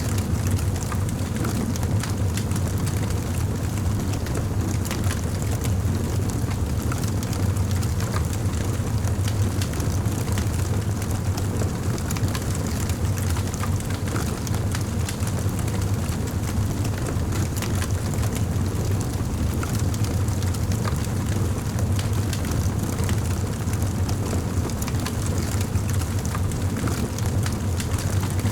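Wood fire burning in a fireplace: many small crackles and pops scattered over a steady low rumble of the flames.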